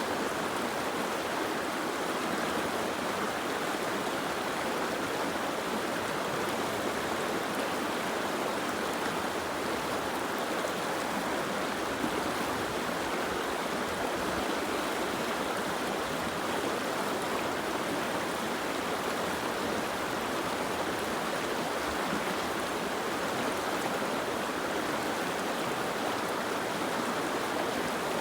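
Soft rain falling steadily, an even hiss of water with no single drops standing out.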